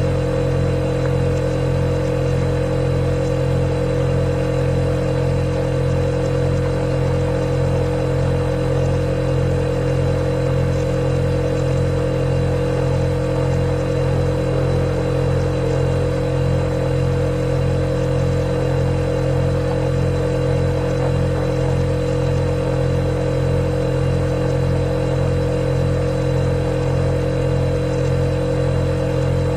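Refrigerator running with a steady low hum and an even whir, unchanging throughout.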